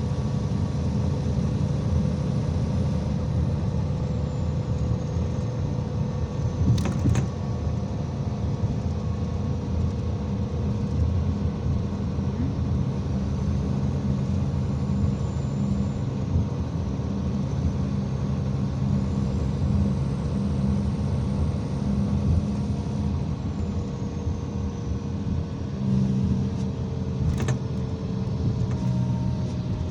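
IVECO Crossway 13M city bus driving, heard from inside the passenger cabin: a steady engine and road rumble whose pitch shifts slightly. Two short clicks or knocks come about 7 seconds in and near the end.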